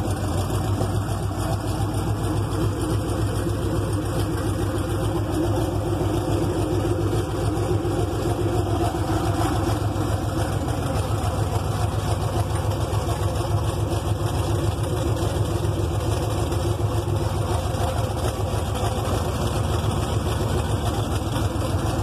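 Built 355 cubic-inch small-block Chevy V8 idling steadily.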